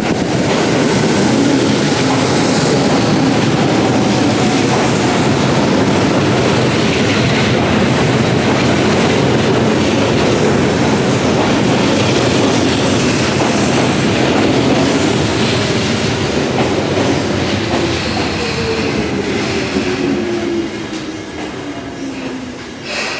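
An electric commuter train pulls into the station, its wheels rumbling and clacking over the rails. In the second half a whine falls steadily in pitch as the train brakes, and the noise eases as it slows near the end.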